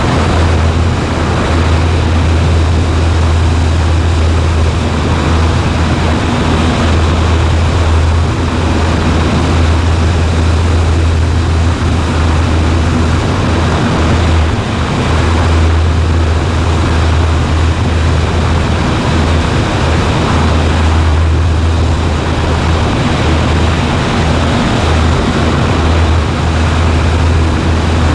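Cessna 140A's piston engine and propeller droning steadily in flight, with a strong low hum under a broad rushing noise.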